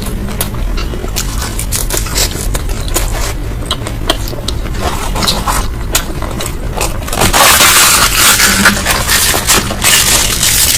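Close-miked eating: chewing and crunching of food with many small crisp clicks, growing louder and denser from about seven seconds in.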